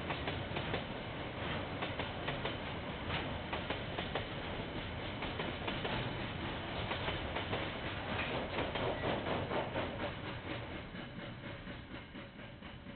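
KiwiRail train rolling past, its wheels clicking over the rail joints in a quick, uneven rhythm; the sound fades away over the last few seconds. Heard through a security camera's microphone, which gives it a thin, dull tone.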